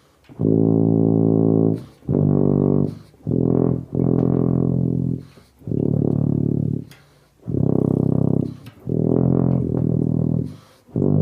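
Tuba playing a slow hymn melody: about seven long, held low notes, each followed by a short pause for breath.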